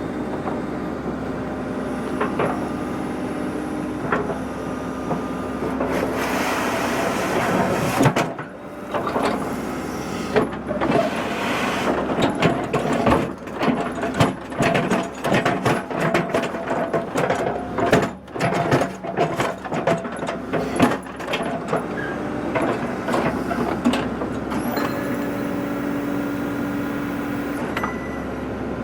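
Engine of an earth-moving machine running steadily while grading ground. From about 8 to 22 seconds in there are many knocks and clanks as it works the dirt and gravel.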